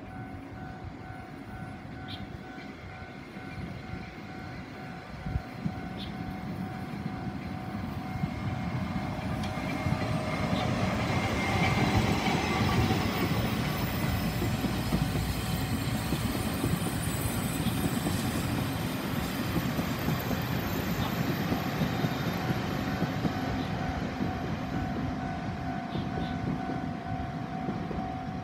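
Taiwan Railways locomotive-hauled passenger train passing close by, its rumble and wheel noise building over the first ten seconds and staying loud to the end. A level-crossing warning bell rings steadily through it, drowned out while the train is loudest.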